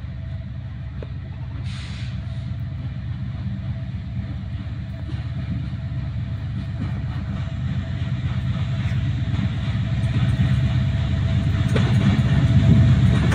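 Diesel locomotive of an intercity express train approaching on straight track: a low rumble from engine and wheels that grows steadily louder as it nears.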